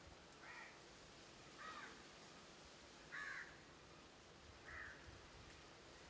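A bird giving four short, faint calls, spaced about a second and a half apart.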